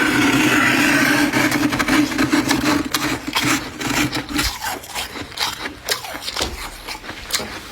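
Freezer frost being scraped, a steady grinding scrape for about the first four seconds, then a run of sharp, irregular crunches as the frost is bitten and chewed.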